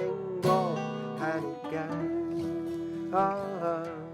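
A man singing a slow Korean folk ballad to strummed acoustic guitar, with a sung line about a second in and another near the end.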